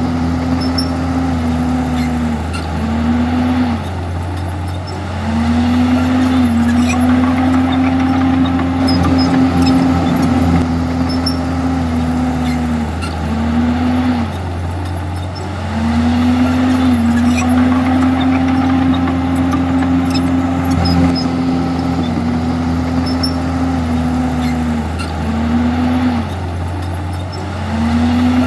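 Komatsu bulldozer's diesel engine running steadily. About every eleven seconds its note dips briefly and comes back up.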